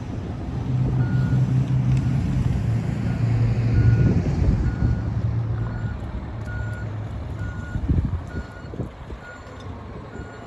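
Fire truck's diesel engine running with its backup alarm beeping steadily, a little under two beeps a second, as the truck reverses. The engine drone fades about halfway through while the beeping carries on.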